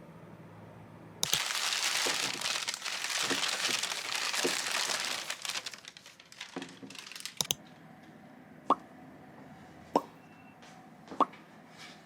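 Loud crinkling, tearing noise for about five seconds, then a few light clicks and four sharp plops about a second and a quarter apart.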